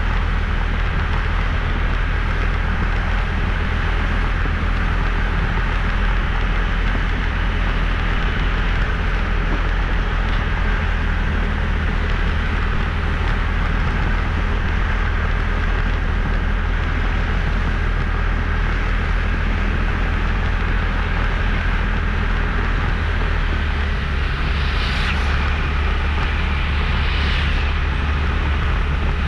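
Steady engine and road noise of a motorbike being ridden, a constant low rumble. Near the end come two brief, louder hissing swells.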